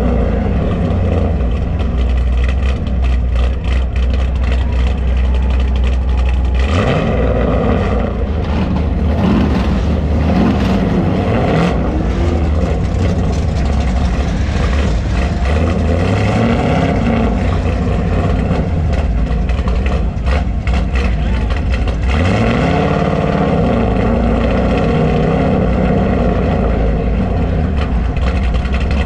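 Car engine running loudly, revving up several times with rising pitch between steadier stretches.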